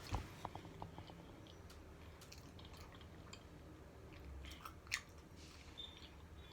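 Close-up chewing and biting of food, with soft wet mouth clicks and a few crunchy crackles, one sharper crunch near the end.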